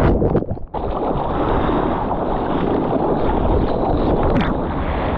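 Strong wind buffeting the camera microphone over the rush of surf and water, with a brief drop-out just under a second in.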